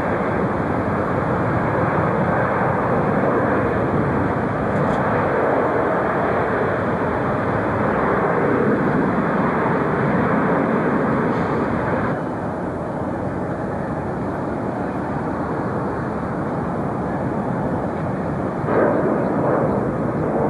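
Jet airliner engines running, a steady rushing noise that drops slightly about twelve seconds in and swells briefly near the end.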